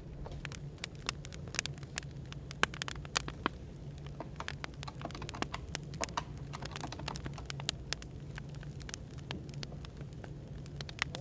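Burning firewood crackling with irregular sharp pops and snaps, over a steady low background hum.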